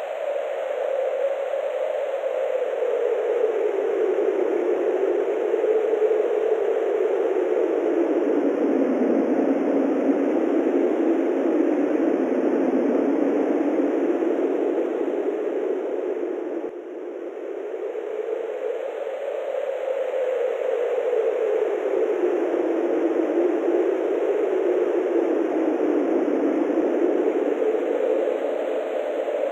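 Wind: a steady rushing noise whose pitch slowly sinks and rises again, with a brief dip about 17 s in.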